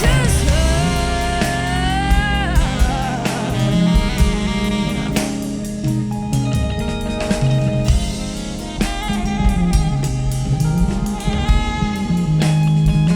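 A live band playing an instrumental passage: drum kit with regular snare hits over a moving bass line and guitar.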